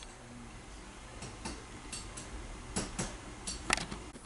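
A series of light clicks and knocks, irregularly spaced over a steady low hum, with the sharpest knock near the end. The sounds are typical of metal parts and tools being handled at a cylinder-head machining fixture.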